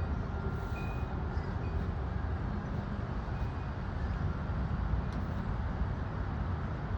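Strong, gusty thunderstorm wind blowing steadily, with a deep rumble of the wind buffeting the microphone.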